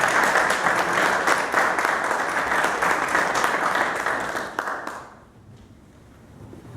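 Audience in a meeting room applauding, dying away about five seconds in.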